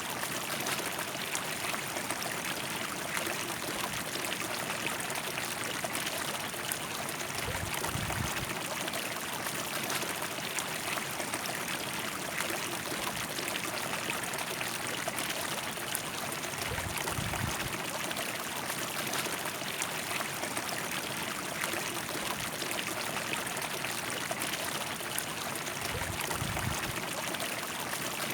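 River water rushing and splashing over its bed, a steady, dense flow. Three brief low rumbles come and go about nine seconds apart.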